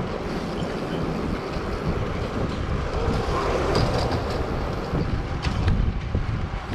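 Wind buffeting the microphone of a camera on a moving bicycle, a steady low rumble with street traffic noise mixed in, and a few sharp clicks near the end.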